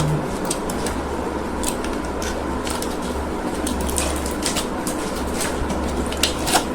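Packaging being handled: scattered, irregular crinkles and clicks over a steady low hum, with two sharper clicks near the end.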